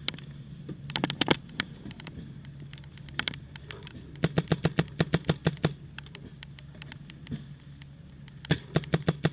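Paintball markers firing: a few single shots, then two rapid strings of about ten shots a second, the first about four seconds in and the second near the end.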